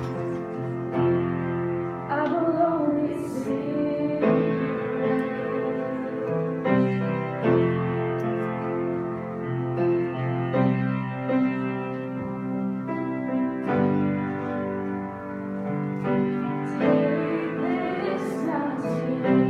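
Worship song on piano or keyboard, sustained chords changing every second or two, with a singer's voice coming in at times.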